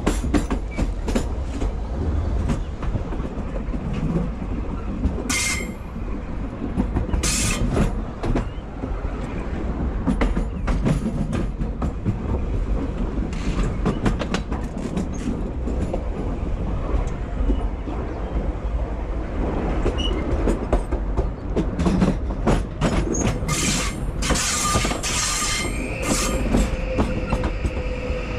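A train running on the rails, heard from the driver's cab: a steady low rumble with frequent clicks and knocks from the wheels on the track, coming thick and fast a little before the end. Near the end a steady, several-toned wheel squeal sets in.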